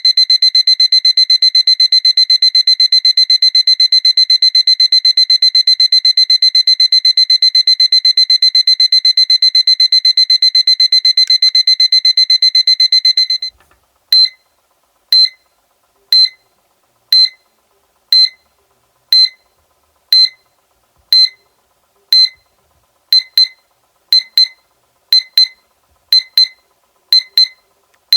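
SEIKO alarm clock beeping: a high-pitched, rapid run of beeps that stops about halfway, then short single beeps about once a second, turning into double beeps near the end.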